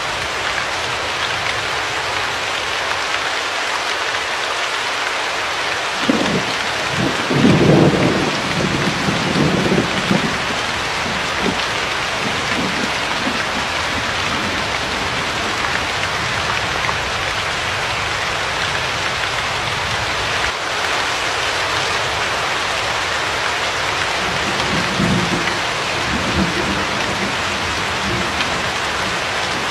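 Steady heavy rain hissing, with thunder rumbling low about six seconds in, loudest around the eighth second, and a weaker rumble near the end.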